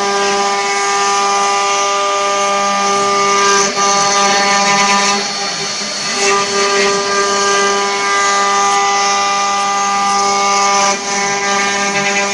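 Multi-spindle 4-axis CNC wood router running: a steady high spindle whine with a hiss above it, dipping briefly about four seconds in and again near eleven seconds.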